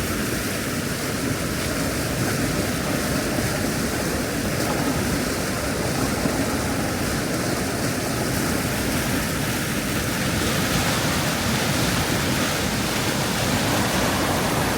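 Flooded River Soar rushing past in a steady, even wash of water noise.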